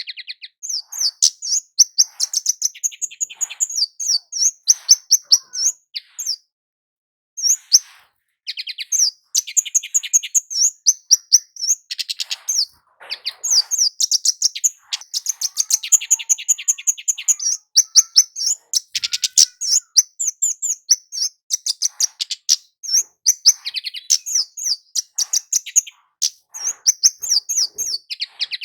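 Kemade jawa, a small flowerpecker, calling in rapid runs of sharp, high-pitched chip notes, several per second, with a pause of about a second roughly a quarter of the way in.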